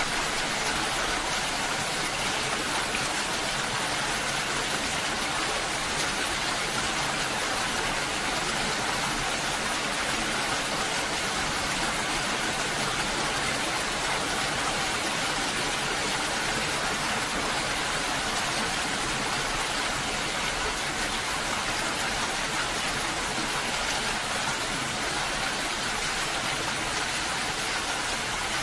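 Steady rain falling, an even hiss without change in level.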